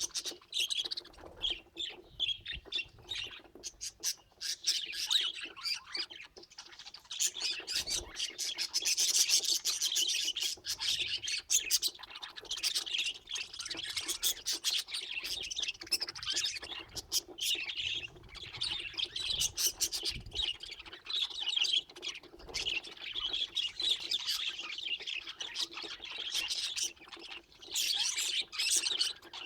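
Budgerigars chattering and warbling continuously, a dense stream of chirps and squawks.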